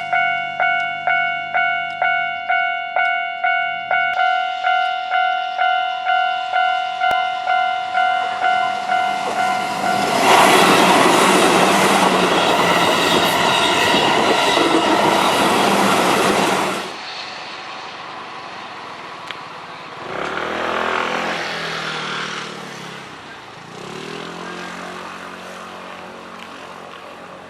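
Japanese level-crossing warning bell dinging about twice a second. About ten seconds in, a Keihan 8000 series limited express train passes loudly through the crossing for about seven seconds. After that the bell is no longer heard and a quieter rumble fades away.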